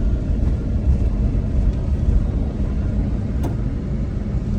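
Steady low rumble of a moving car heard from inside the cabin: engine and tyre road noise, with a faint click about three and a half seconds in.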